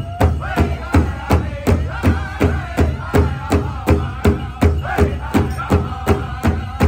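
Powwow drum struck in a steady beat, about three strokes a second, with a group of singers chanting over it.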